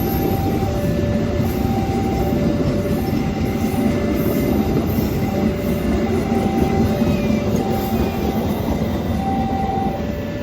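A train passing close by with a steady, loud rumble of wheels on rail. Over it a level-crossing warning alarm sounds, alternating a higher and a lower tone, each held for under a second.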